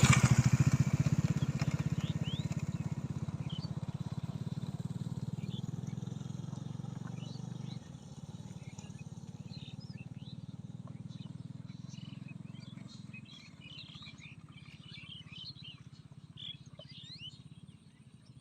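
A low, rapidly pulsing engine drone fades away, dropping off sharply about eight seconds in. Songbirds chirp over it, more and more densely toward the end.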